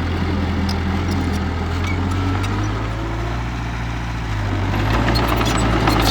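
Heavy diesel engine of earth-moving equipment running steadily, with scattered light clicks. It grows somewhat louder about five seconds in.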